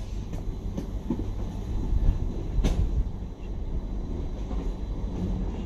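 Train running on the line: a steady low rumble with a couple of sharp clicks.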